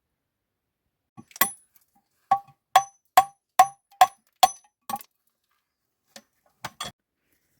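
A series of sharp metallic strikes, each leaving a short ringing tone, about seven in a steady rhythm of two or three a second, followed by a couple of lighter taps near the end.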